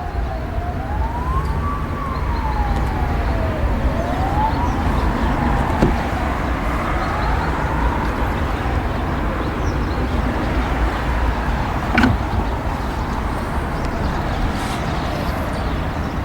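Emergency-vehicle siren wailing, rising and falling in slow sweeps and fading away after about eight seconds, over a steady low rumble. A single sharp click comes about twelve seconds in.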